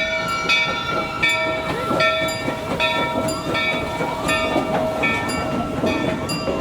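A bell clanging in a steady rhythm, about one stroke every three-quarters of a second, each stroke ringing on, over a background of crowd voices.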